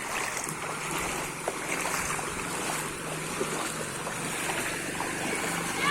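Steady rush of flowing water with scattered small ticks, over a faint, steady low hum.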